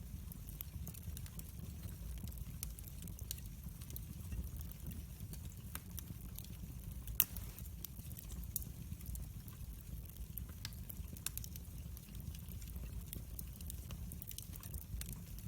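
Wood fire crackling: a steady low rumble of flames with scattered small pops and snaps, and one sharper, louder pop about halfway through.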